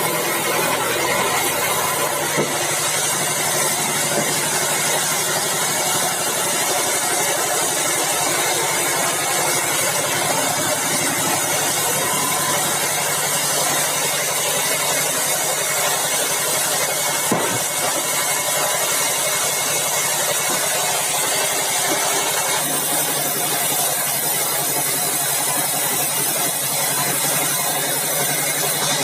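Bandsaw mill running steadily with a constant loud machine hum and whir, with a sharp knock about two seconds in and another about seventeen seconds in.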